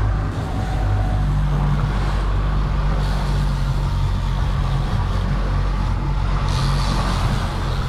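Boat engine running steadily, a constant low hum with a rush of wind and water over it.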